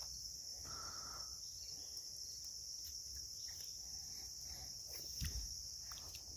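Steady high-pitched insect chorus, a continuous buzz with a fainter, even higher band above it, and a soft thump about five seconds in.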